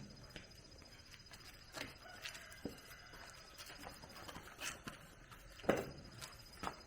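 Scattered light knocks and clicks, irregular and a few seconds apart, with one louder knock near the end, over a faint steady high whine.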